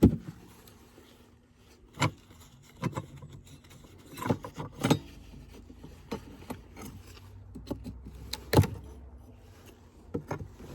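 Irregular knocks and clicks of wooden hive frames being handled and moved in the hive box, with the loudest sharp knock about eight and a half seconds in.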